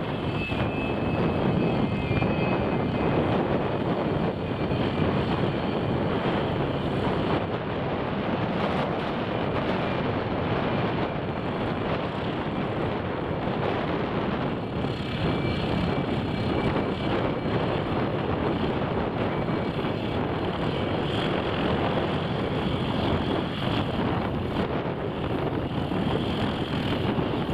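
Aircraft engine noise at an air display, steady and unbroken, with wind on the microphone.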